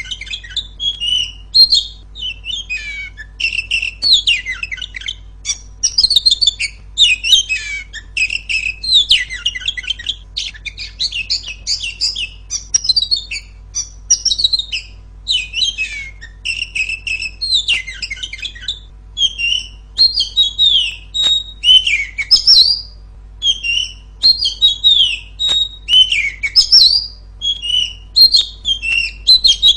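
Female oriental magpie-robin singing loud, clear song: a steady run of short, varied whistled and chattering phrases with brief pauses between them.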